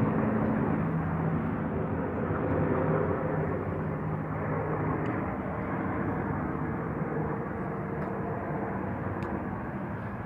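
Bell UH-1N twin-turbine helicopter after its flyover, its steady rotor and engine noise slowly fading as it moves away; a low hum in it dies out about a second in.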